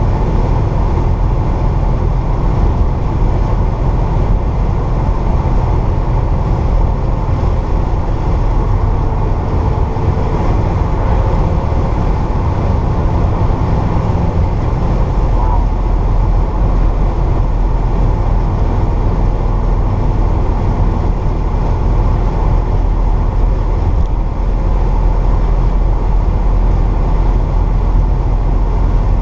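1964 Pontiac GTO's 389 V8 with Tri-Power carburetion running steadily on the road, heard from inside the cabin along with road and tyre noise.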